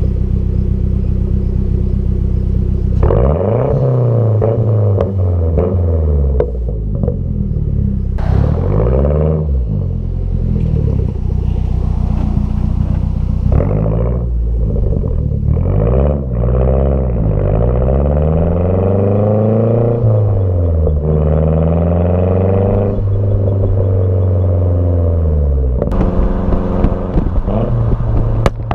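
A 2009 Mazdaspeed3's turbocharged 2.3-litre four-cylinder, running a tune with added boost and a pop-and-crackle map, idles for a few seconds and then revs up and down repeatedly as the car accelerates and shifts. A few sharp pops break in now and then.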